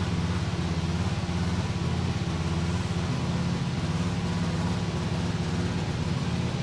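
Honda 2021 Formula 1 power unit, a 1.6-litre V6 turbo-hybrid, running steadily at idle with an even pitch.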